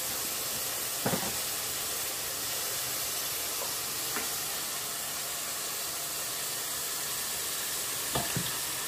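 Minced meat with chopped carrot, celery and onion frying in a pot, a steady even sizzle. A faint knock comes about a second in and another near the end.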